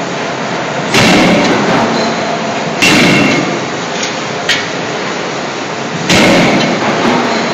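CNC hydraulic closed-die forging hammer striking three heavy blows on a scissors forging, each with a brief metallic ring, at uneven intervals over steady machine noise. A lighter sharp click falls between the second and third blows.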